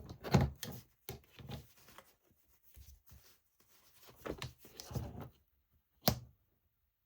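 Paper being handled and folded on a work table: a string of short rustles and soft knocks, then one sharp tap about six seconds in.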